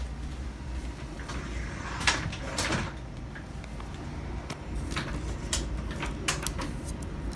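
Payne outdoor air-conditioner unit running with a steady low hum. Short knocks and clicks cut in over it, the loudest about two seconds in and a cluster later on.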